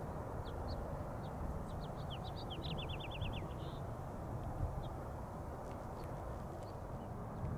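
Small bird chirping: scattered short high chirps, with a quick run of about eight falling notes near the middle. The loudest part is a steady low rushing noise underneath.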